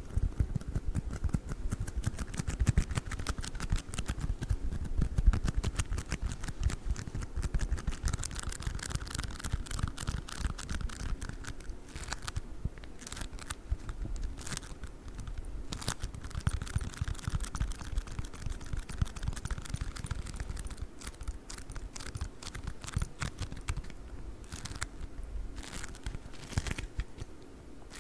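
Play foam being squished and kneaded with the fingers: dense, rapid sticky crackling and clicking.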